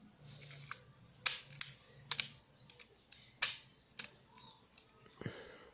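Irregular sharp clicks and taps of a hard-plastic mini 4WD model car being handled, a few at a time, loudest about one and a half and three and a half seconds in.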